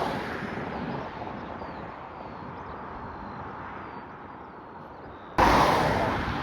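Steady rushing noise of jet aircraft engines, with a sudden much louder surge about five seconds in that then slowly fades.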